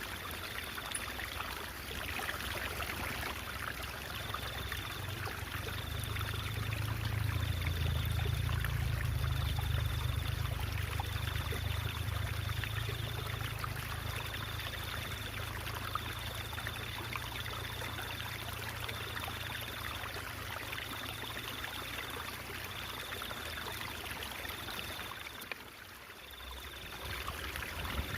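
Water trickling and babbling steadily in a stream, with a low rumble that swells in the middle and a brief dip in level shortly before the end.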